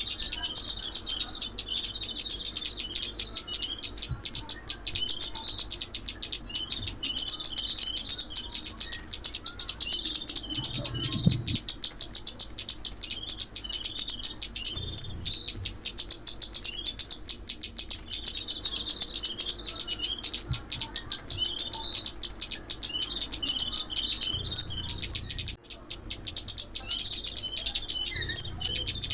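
Lure recording of chim ốc mít, a small songbird: fast, high, thin chirps and twitters in repeated phrases of a few seconds with short breaks.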